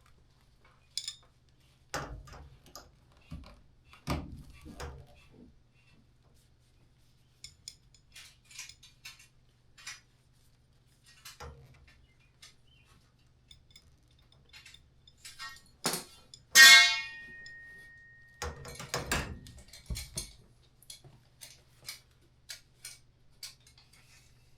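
Metal tools and parts clinking and clattering as they are handled, with one loud metallic clang about two-thirds of the way through that rings on briefly as a single high tone.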